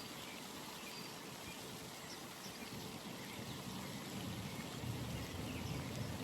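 Outdoor pond ambience: an even background hiss with a few faint, short high chirps scattered through it, and a low rumble that swells about five seconds in.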